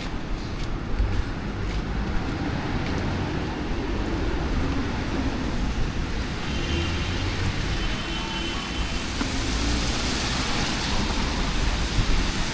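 City street traffic on wet pavement: a steady low engine rumble with tyre hiss that grows louder in the second half.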